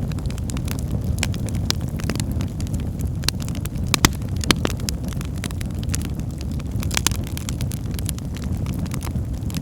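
Wood fire burning in a fireplace: a steady low rumble of the flames with frequent sharp crackles and pops from the burning logs, two louder pops about four seconds in.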